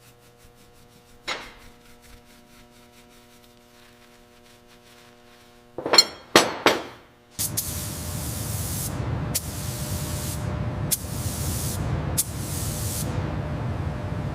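A quiet stretch of low hum, then three or four sharp metallic clanks. A steady rumble follows, cut by about five loud bursts of hissing spray a second or two apart, as of heavy salvage machinery and compressed air or spray equipment at work.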